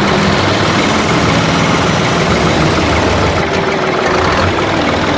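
Heavy vehicle engine running steadily at idle, with a low hum under a continuous rumble.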